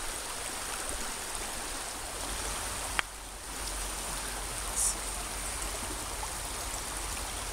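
Shallow, fast-moving stream rushing over rocks in a riffle, a steady wash of water. One sharp click about three seconds in.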